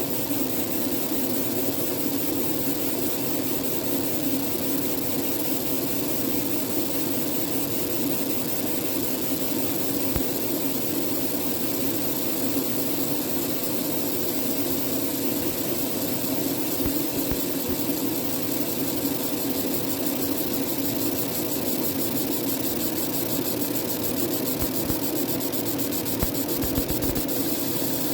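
A 30 W fiber laser marking machine running, with a steady hum and a hiss.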